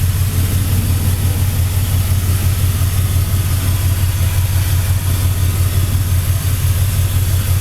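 2001 5.3-litre Vortec V8 in an LS-swapped 1985 GMC pickup idling steadily, through 2010 Camaro headers and MagnaFlow mufflers. A low, even idle with no revving.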